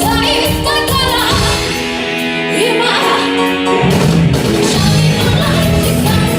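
A live rock band playing, with a vocal line over guitar. The drums and bass drop out for about two seconds midway, then come back in.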